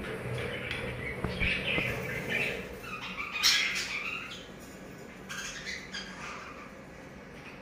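Budgerigars chirping and squawking in short, busy calls, with the loudest burst about three and a half seconds in and quieter chatter after.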